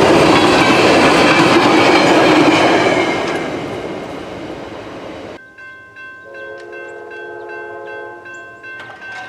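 Rumble of a passing train that fades away over a couple of seconds and cuts off abruptly. Then a railroad crossing bell rings about twice a second while a train horn sounds one held chord.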